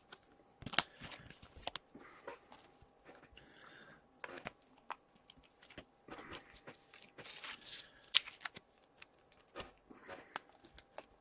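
Trading cards and pack wrappers being handled: scattered rustling, crinkling and tearing with sharp little clicks of cards being slid and set down.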